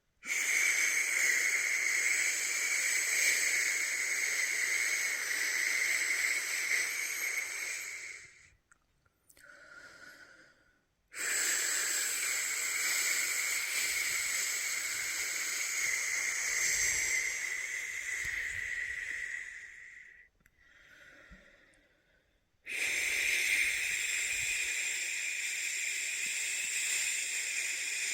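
A person shushing a baby to sleep with long, steady "shhh" sounds of about eight seconds each, three in a row, with short quiet pauses between them.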